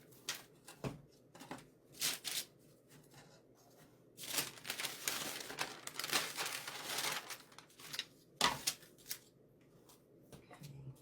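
Paper towel being handled: a few light clicks and taps, then about three seconds of steady rustling and crumpling in the middle, and one more sharp tap later on.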